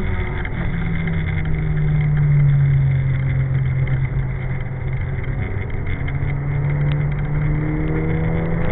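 Nissan Silvia S14's engine heard from inside the car at track speed, a steady engine note over road noise, with its pitch climbing near the end as it accelerates.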